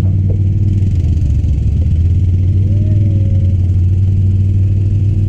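Truck engine running steadily under light load in four-wheel drive on a trail, a deep even rumble.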